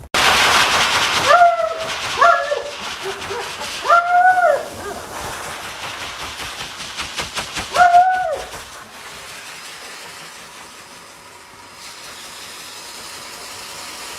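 A dog giving four short, high yips or whines that rise and fall in pitch, over a loud steady hissing noise that fades to a lower hiss after about nine seconds.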